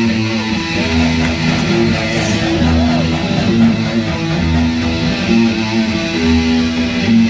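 Guitars with bass playing a repeating figure that comes round about every two seconds, with held low notes.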